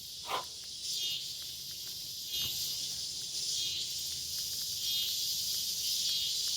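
Chorus of summer insects, a high hiss that swells and fades every second or two, with a few faint clicks underneath.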